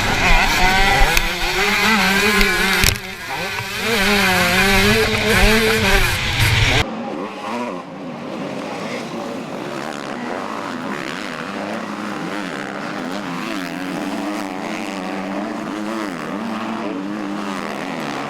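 Motocross bike engines revving up and down through the gears, loud and close for about the first seven seconds, then after a sudden cut a quieter, more distant engine sound that keeps rising and falling in pitch.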